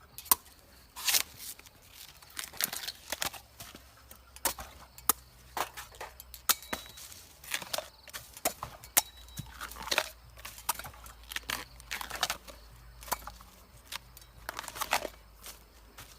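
Close-up crunching: a string of irregular sharp crackles and clicks, one or two a second, some louder than others, as a brittle or crunchy material is pressed and broken.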